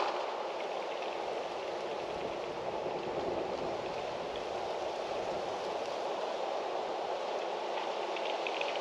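Wind blowing steadily through trees, an even rushing noise with no gusts standing out.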